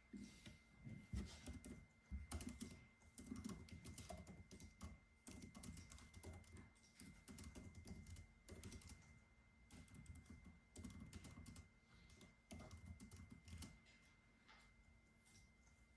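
Soft typing on a computer keyboard: quick runs of keystrokes broken by short pauses, easing off near the end.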